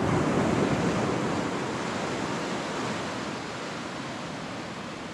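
Ocean surf washing onto a sandy beach, swelling in the first second and then slowly ebbing away.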